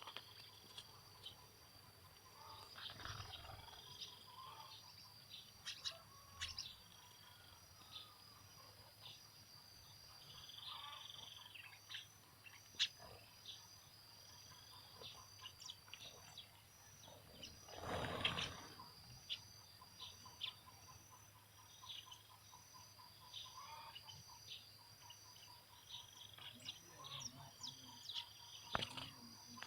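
Birds chirping, with scattered short calls over a steady high-pitched tone. A brief louder noise comes about eighteen seconds in, followed by a few seconds of rapid, even ticking pulses.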